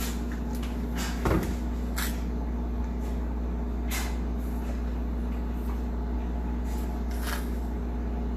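Sugar being added for grape juice: a knock and a few short scrapes over a steady low hum.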